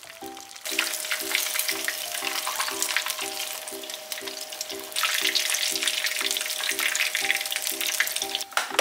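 Breaded swordfish pieces shallow-frying in hot oil in a small square pan: a dense crackling sizzle. It starts about a second in, grows louder past the halfway point and cuts off just before the end.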